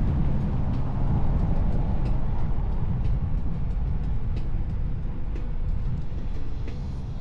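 Wind rumbling on an action camera's microphone while riding an electric unicycle, with scattered small clicks.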